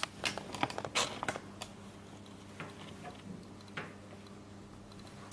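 Small metal clicks and knocks of a high-pressure hose and its fitting being handled and fitted onto a PCP hand pump: a quick cluster in the first second and a half, then a few scattered taps.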